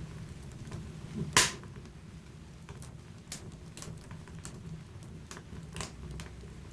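Wood fire in a fireplace crackling, with scattered pops and one loud, sharp pop about a second and a half in, over a low steady rumble.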